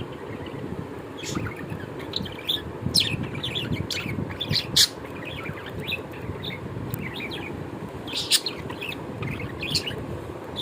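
Small birds chirping in short, sharp, scattered calls over a steady low background noise.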